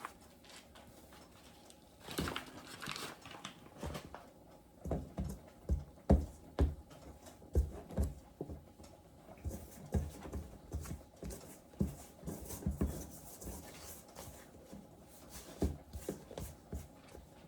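Dumpling dough being worked by hand on a floured counter: soft, irregular thumps a few times a second, after a brief rustle.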